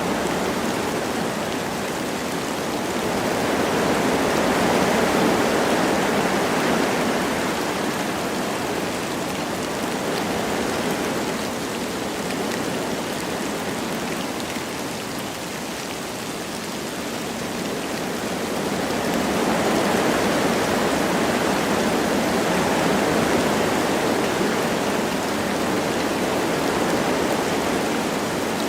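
Wind rushing through forest trees with light rain falling: a steady rushing noise that swells twice, easing off in between.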